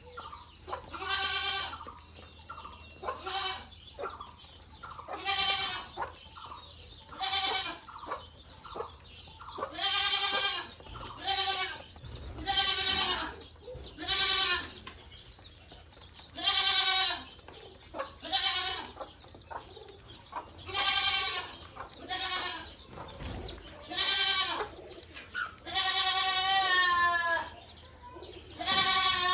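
An animal calling over and over: about fifteen pitched calls, each under a second, one every second or two, the last few wavering and falling in pitch.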